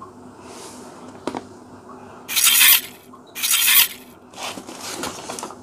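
Kitchen knife slicing through the packing tape along a cardboard box seam: two loud scraping strokes about a second apart, then several quieter scrapes.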